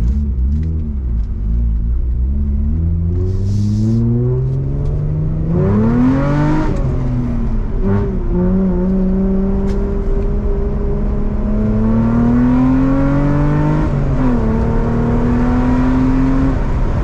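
Car engine accelerating under load, its note climbing steadily and then dropping sharply twice at gear changes, about six seconds in and again near the end.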